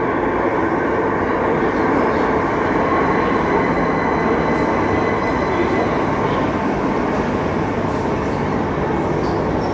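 Heathrow Express train running at an underground station platform: a loud, steady rumble of train and rail noise.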